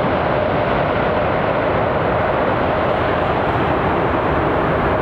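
Jet engine noise of a landing Boeing 787 with Rolls-Royce Trent 1000 engines: a loud, steady, even rush with no breaks or changes in level.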